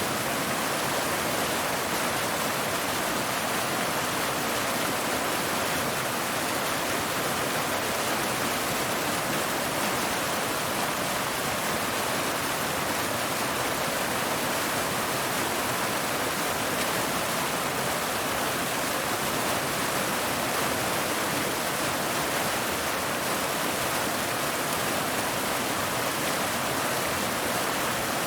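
Waterfall cascading over rocks: a steady, even rush of falling water that does not change.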